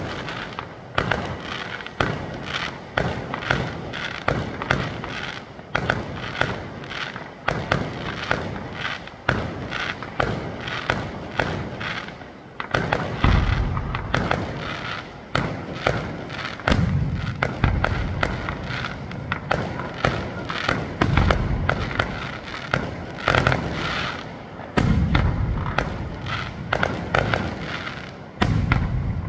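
Fireworks display: a dense, continuous run of aerial shell bursts and crackling reports, several bangs a second, with heavier deep booms from about halfway through and again near the end.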